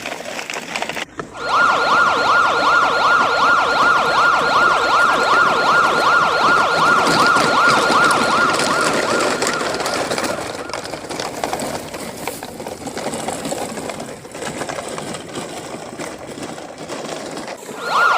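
Police car siren in a fast yelp, its pitch sweeping up and down a few times a second. It starts about a second in, fades away around the middle and comes back near the end.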